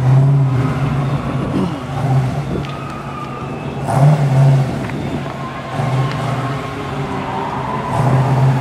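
Drag-race car engines idling at the starting line, the throttle blipped in short revs about four times, each briefly raising the pitch and loudness.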